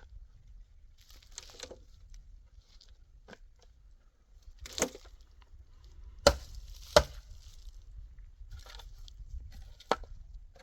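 Scattered rustling and a few sharp knocks, the two loudest about six and seven seconds in: objects being handled.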